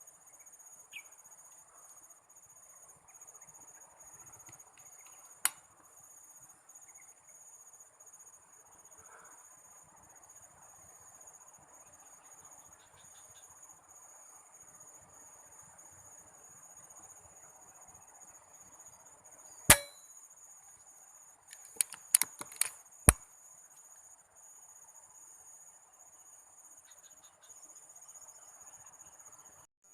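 Steady high-pitched insect chirring, crickets or cicadas, throughout. One sharp crack about twenty seconds in, the loudest sound here, is followed a couple of seconds later by a quick run of sharp clicks.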